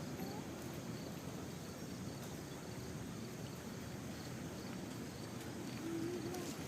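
Outdoor ambience: faint, regularly repeated insect chirps over a steady low background rumble.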